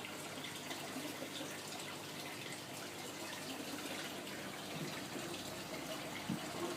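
Aquarium water running with a steady rush.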